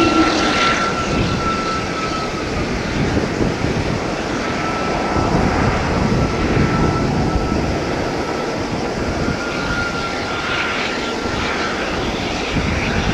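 Let L-410 Turbolet's twin turboprop engines running over a broad rushing noise, with a thin, high, steady whine that fades in and out several times.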